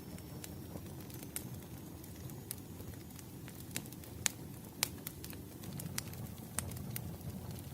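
Wood fire burning: a low steady rumble of flames with irregular sharp crackles and pops from the burning logs, two louder pops a little past the middle.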